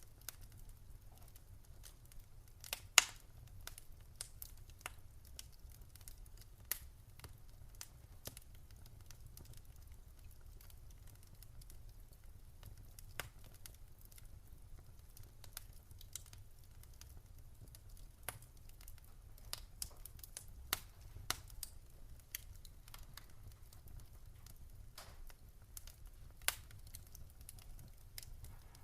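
Fire crackling: irregular sharp pops and snaps, the loudest about three seconds in, over a low steady rumble.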